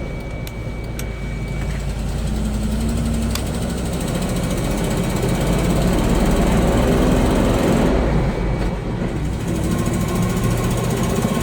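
1995 GMC TopKick truck's gasoline engine running as the truck drives down the road, getting louder as it pulls, with its pitch rising near the end as it speeds up. A few sharp ticks come in the first few seconds.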